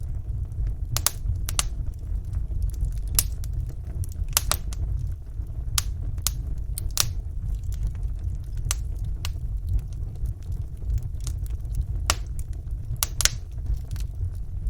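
Wood fire burning in a fireplace: a steady low rumble of the flames with irregular sharp crackles and pops of the burning logs.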